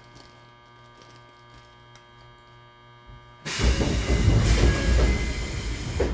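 Tobu 20400-series electric train car standing at a station with a steady electrical hum, then about three and a half seconds in the doors open with a sudden loud air hiss and rush of noise.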